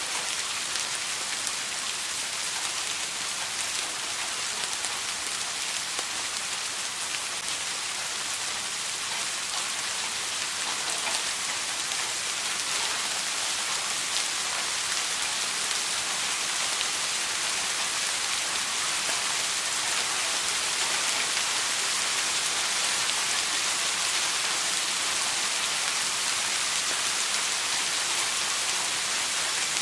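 Steady rain falling, a dense, even hiss of drops striking a surface, with fine scattered drop ticks.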